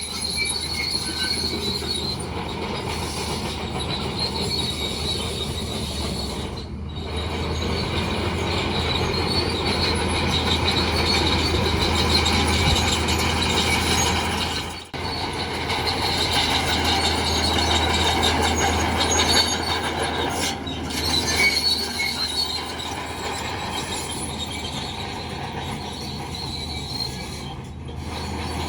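Crawler bulldozer working: its steel tracks squeal with a high, metallic screech over the steady run of its diesel engine.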